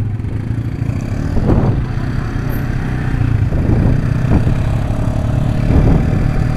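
Motorcycle engine running steadily with a low rumble, a few faint knocks on top; the Yamaha New Vixion Lightning's single-cylinder four-stroke.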